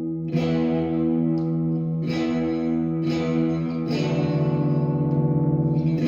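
Tokai AST 114SH Stratocaster-style electric guitar played through an amp, with the selector on a setting that brings in the middle single-coil pickup. Chords are strummed about four times and left to ring, and the last one wavers in a quick pulse.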